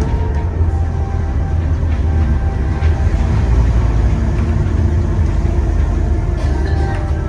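Scania N230UD double-decker bus's diesel engine and road noise heard from on board: a heavy, steady low rumble as the bus drives along.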